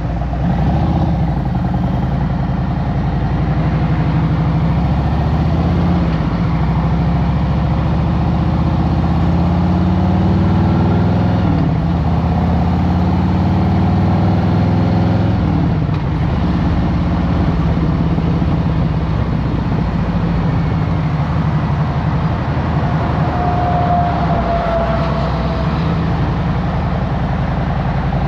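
Harley-Davidson Road Glide Special's V-twin engine running on the road. The revs climb a few seconds in and drop back about halfway through, with another drop a few seconds later, as it accelerates and shifts.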